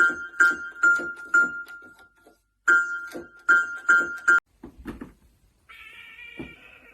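A high piano-like note struck over and over, about two or three times a second, in two short runs. Near the end a cat starts a long meow.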